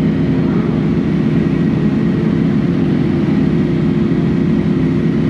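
Motorcycle engine idling steadily at a standstill, with an even, unchanging note and no revving.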